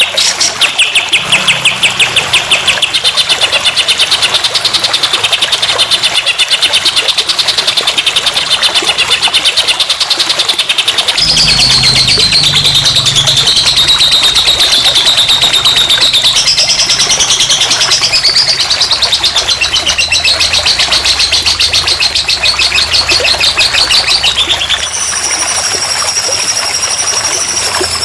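Recorded tutor birdsong (masteran) used to train a young magpie-robin: long, very fast rattling trills, high-pitched and unbroken. The pitch steps up about a third of the way in, rises and falls a little later, and shifts higher and thinner near the end.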